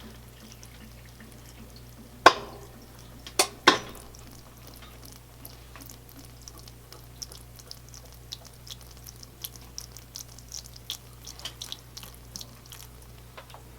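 Handling noises at a top-load washing machine as it is loaded: three sharp knocks early, then a long run of light irregular ticks and clicks, over a steady low hum.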